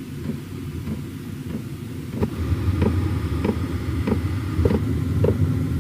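Chinese diesel heater running: steady low rumble of its blower and burner, with its fuel pump ticking evenly, about one tick every 0.6 seconds, from about two seconds in.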